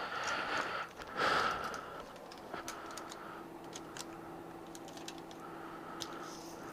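Faint scattered clicks and light taps, with a faint steady hum coming in about two seconds in.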